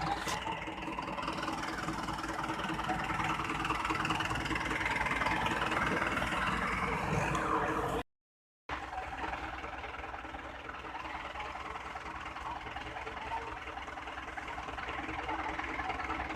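Tractor diesel engine running steadily. All sound cuts out for about half a second just past the middle, then the engine sound resumes.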